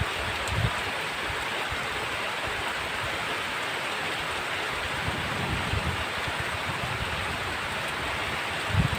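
Heavy rain falling steadily, an even rushing hiss, with a few brief low thumps now and then.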